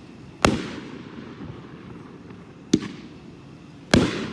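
A 9-shot 500-gram consumer firework cake (the 'Rifle' cake of a firearm series) firing: three loud, sharp bangs, each with an echoing tail, the first about half a second in and the last two about a second apart.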